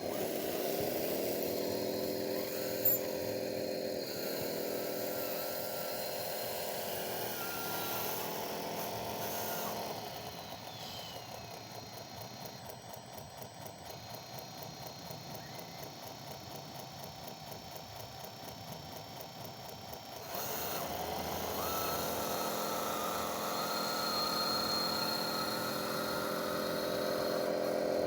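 Electric motor and drive of a radio-controlled model running with a whine. The pitch rises as it spins up and sags twice under load. It drops away about a third of the way in and picks up again about two-thirds of the way through.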